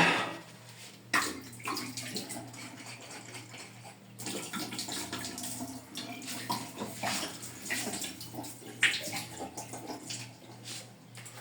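Water splashing and running as glass bottles are washed on a FastWasher bottle washer, with a few sharp glass clicks, over a low steady hum.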